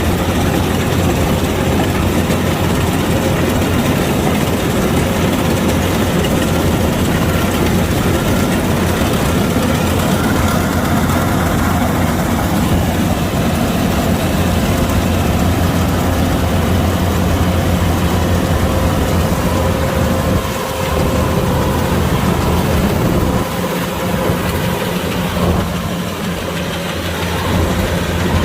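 Kubota DC-105X combine harvester's diesel engine running steadily with a low drone, dipping briefly in loudness a few times in the last third.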